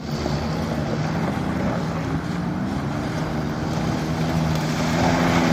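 Motorcycle engine running steadily while riding, with wind noise over it; the engine gets a little louder near the end.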